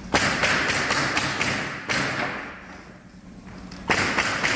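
Rapid knocking, about four sharp knocks a second, in a run of roughly two seconds. A second run starts near the end.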